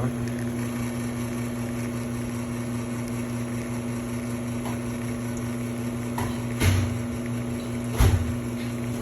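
Espresso machine's pump humming steadily while pulling a shot. Two short knocks come near the end.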